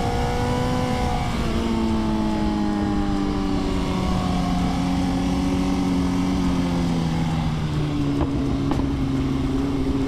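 Motorcycle engine running with its pitch slowly falling as it slows, then jumping up near the end as it changes down, over a steady rush of noise.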